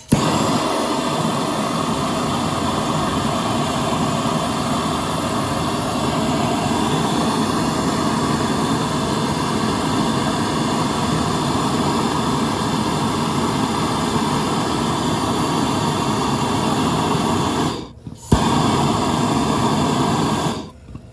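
Plumber's soldering torch flame burning with a steady hiss while it heats a copper pipe joint for sweating. It cuts out for a moment near the end, lights again, then shuts off.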